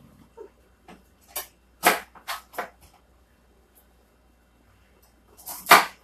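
A few short knocks and rustles of kitchen things being handled, four close together a couple of seconds in and one louder one near the end.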